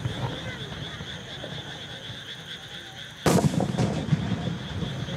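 Aerial firework shell bursting with a sudden loud boom about three seconds in, echoing, followed by a few smaller pops.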